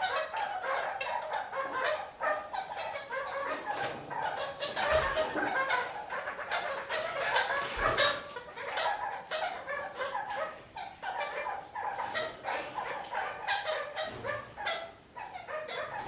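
Red-crowned parakeets (kakariki) chattering, a dense unbroken stream of quick calls with sharp clicks mixed in.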